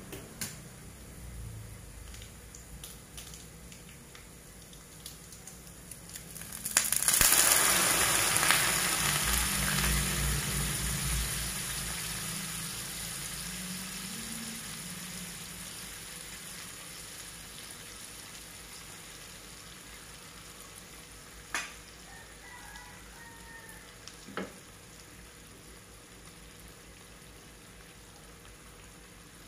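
Peanuts frying softly in oil with small ticks, then about seven seconds in a sudden loud sizzle as beaten egg hits the hot pan, fading slowly over the next ten seconds. Later, two sharp clicks of the fork against the pan.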